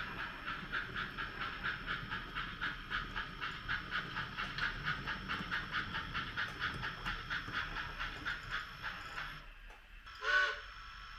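HOn3 model steam locomotive's sound system chuffing at a steady beat of about three a second, stopping about nine seconds in, then one short whistle toot.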